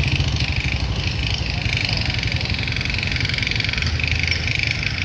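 A vehicle engine running steadily, with a continuous low rumble and a hiss of road and traffic noise, with no distinct events.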